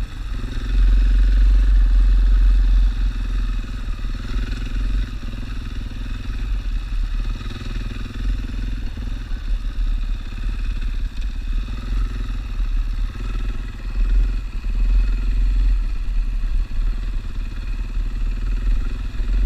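Single-cylinder dual-sport motorcycle engine running as the bike is ridden, over a heavy low rumble; it is a little louder for a couple of seconds near the start.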